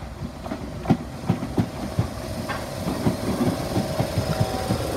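British Rail Class 313 electric multiple unit drawing slowly into a platform, its wheels clacking and knocking irregularly over rail joints and pointwork. A steady hum from the train joins about halfway and grows louder as it comes alongside.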